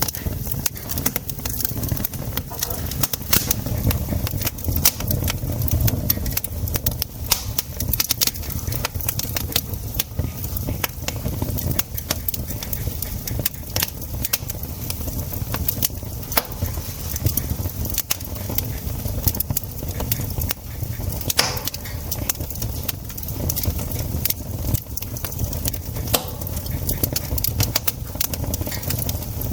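Wood campfire crackling, with frequent irregular sharp pops and snaps over a steady low rumble. One louder pop comes about 21 seconds in.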